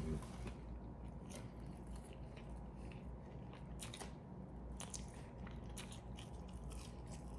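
A person chewing food close to the microphone, with many short, wet mouth clicks and smacks.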